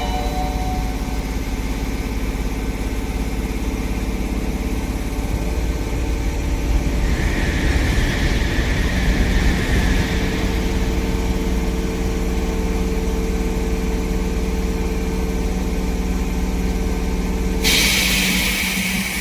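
Sanyo Electric Railway train running at the station, a steady mechanical hum with held tones. A loud hiss starts near the end and cuts off suddenly.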